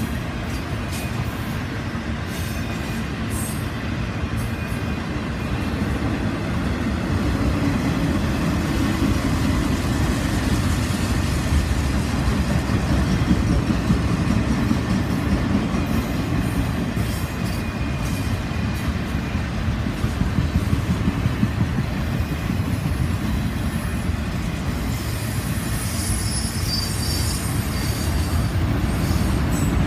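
Autorack freight cars of a long CSX manifest train rolling past: a steady rumble of steel wheels on the rails, with clatter and some high wheel squeal, strongest near the end.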